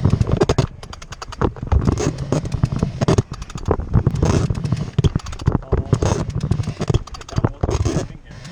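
Wind buffeting the microphone aboard a sailboat: a heavy low rumble broken by irregular crackles and pops.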